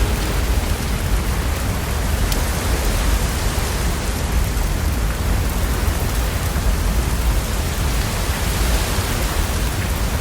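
Steady rain, an even hiss, over a continuous low rumble.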